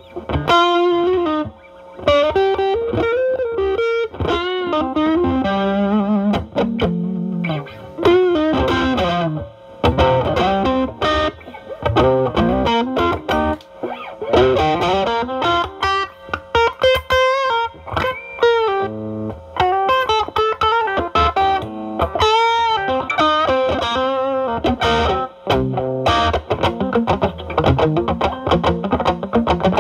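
Electric guitar lead from a Stratocaster through a Ceriatone Centura (Klon Centaur clone) overdrive into a Marshall Valvestate drive channel, with the pedal's gain at 10 and played cleaned up. It is a continuous improvised blues-style line of single notes with string bends, vibrato and quick picked runs.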